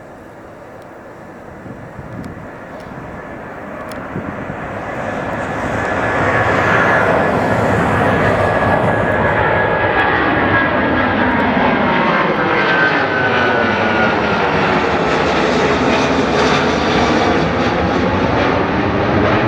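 Boeing 777-200ER's twin jet engines at takeoff power, growing louder over the first six seconds and then holding a loud, steady rumble with a faint high whine, the tone slowly sweeping and shifting as the jet passes.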